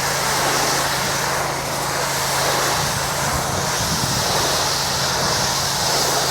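Hot-water pressure washer running steadily: an even machine drone with a constant low hum and a broad hiss.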